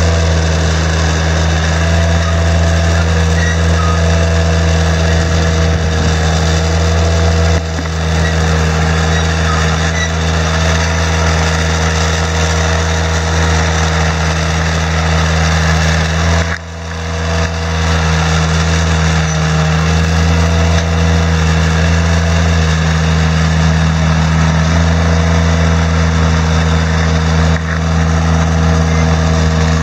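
An engine running steadily at constant speed, with a brief dip about halfway through.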